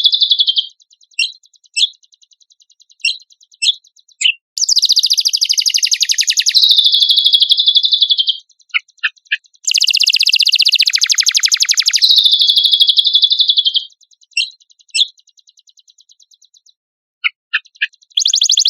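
Cucak kombok song: fast, buzzy trills of rapidly repeated notes, each lasting one to two seconds, broken by pauses with single sharp chirps. Three long trill phrases come about four, nine and twelve seconds in.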